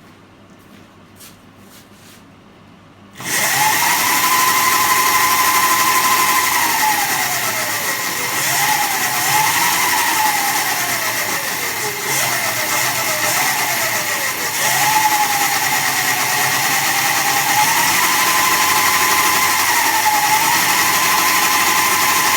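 Electric Honda Monkey conversion's 72-volt, 2000-watt motor spinning the rear wheel through a T8F chain: a whine that climbs, holds and falls back several times as the throttle is opened and eased, over a steady hiss from the drive. It starts abruptly about three seconds in, after a few light clicks.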